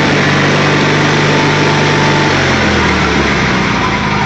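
Craftsman III lawn tractor's 20 horsepower Onan twin-cylinder engine running steadily, its speed dropping a step a little over halfway through.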